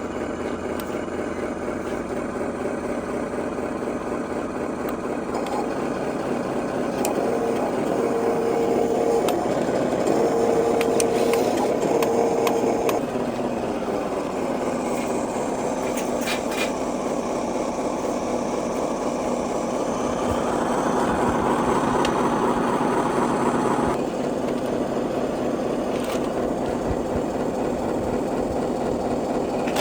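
Small electric motors and plastic gearboxes of RC construction models running, a steady whirring that shifts in pitch and load as the machines work. An intermittent beeping tone sounds for several seconds about a quarter of the way in.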